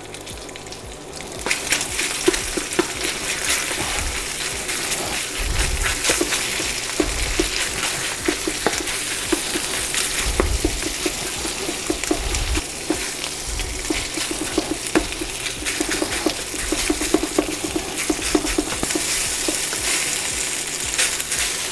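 Marinated chicken pieces sizzling in hot oil in a wok. The sizzle jumps up about a second and a half in as the bulk of the meat goes into the pan, then keeps going while the spatula scrapes and clicks against the wok as the pieces are stirred and turned.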